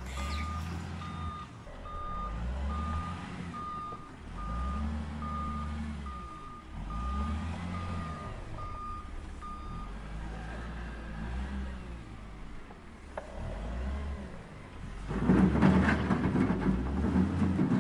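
Toy RC excavator beeping like a reversing alarm, about two beeps a second, over the stop-start whir of its small electric motors as the arm and bucket move. The beeps stop about ten seconds in, and the motor whir is loudest near the end.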